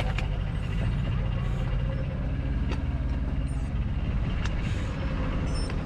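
Steady low road-traffic rumble mixed with wind noise on the microphone of a moving bicycle, with a few light clicks.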